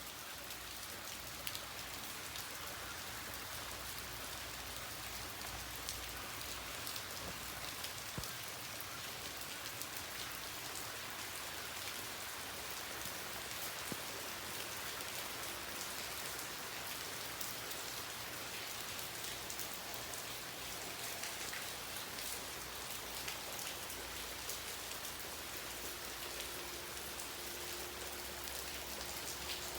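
Steady rain falling, with many individual drops ticking sharply on surfaces.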